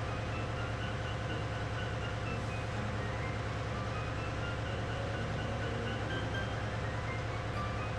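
Steady low machinery drone of a ship's engine room, a dense diesel hum with a fine even pulse and a few steady tones above it.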